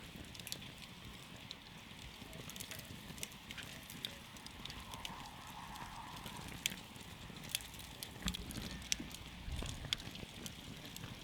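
Wood campfire burning: sharp pops and crackles come at irregular intervals over a low, steady rush of flame, with a couple of heavier low thuds near the end.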